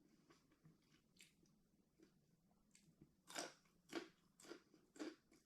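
A person chewing a mouthful of raw vegetables and meat salad close to the microphone. It is faint at first, then about halfway through come about five crisp crunches, roughly two a second.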